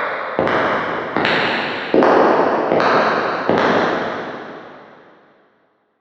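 Footsteps at a steady walking pace, about one step every 0.8 seconds, each with a long echoing tail that runs into the next. Five steps are heard, and the echo of the last one dies away over about two seconds.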